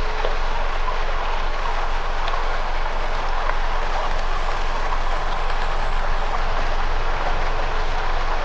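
Campfire burning: a steady hiss with scattered small crackles and pops.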